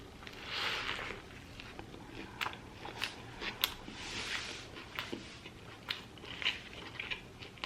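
A person biting into and chewing an In-N-Out hamburger close to the microphone: soft mouth sounds with scattered sharp wet clicks and smacks.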